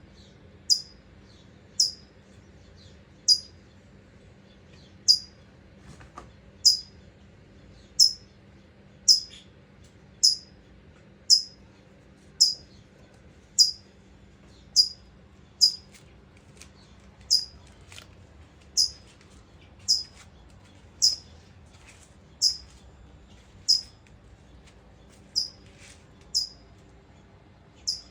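California towhee repeating a sharp, high chip call roughly once a second, each note short and dropping slightly in pitch. These are the adult's anxious calls while its nest of newly hatched chicks is being disturbed.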